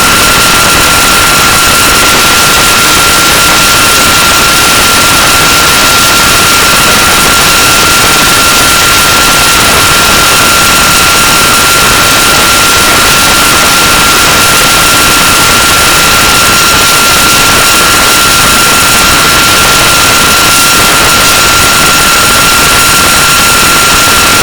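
Loud, unchanging static hiss with a steady high tone running through it, and no separate events or changes.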